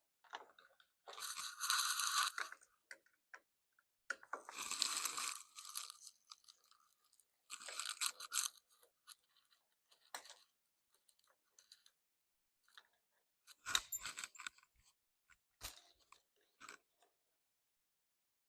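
Hands working on motorcycle handlebar parts: four short bouts of scraping and rubbing, with scattered small clicks and a few sharp knocks.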